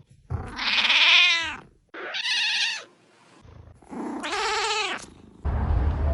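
A cat meowing three times, long drawn-out meows, the first the loudest.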